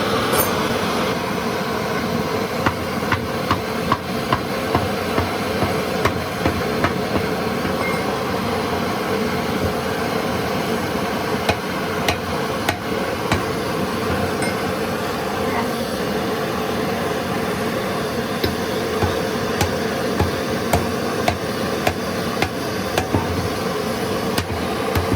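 Repeated hammer blows, about two a second for several seconds, then more spaced and irregular, over a steady noisy drone.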